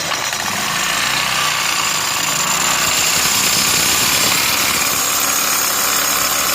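Chinese GY6 150 cc scooter engine being given throttle, running loud and harsh with a high whine from the belt and clutch drive that rises a little about five seconds in. The drive belt is slipping and burning, which the mechanics put down to a clutch problem.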